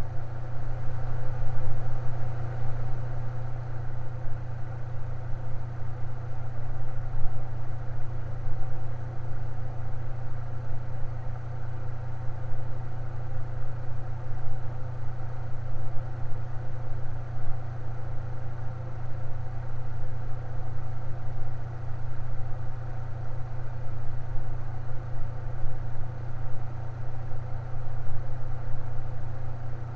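Electric fan running steadily, a constant low hum with a whooshing hiss above it.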